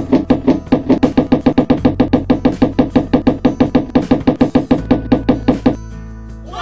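Rapid, even knocking, about seven knocks a second, each with a short low ring, stopping about six seconds in, over steady background music.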